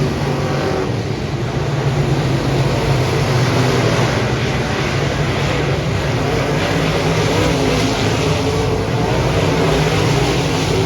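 Dirt modified race car engine running hard at a steady loud level, with no clear rev changes.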